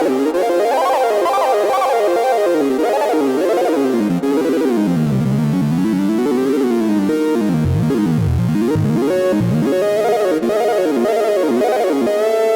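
2022 reissue Minimoog Model D synthesizer playing a single line whose pitch keeps sweeping up and down in quick arcs, diving very low about two-thirds of the way through. Near the end it settles onto a steady held note.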